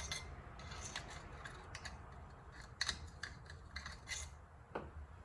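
Scattered light clicks and scrapes of small metal tools or parts being handled.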